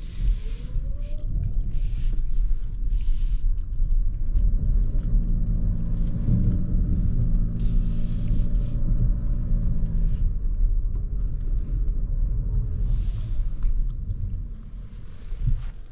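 Lexus NX350h hybrid SUV driving, with a heavy low road and tyre rumble and intermittent hissing. The 2.5-litre four-cylinder petrol engine hums steadily for several seconds in the middle. The sound eases off near the end.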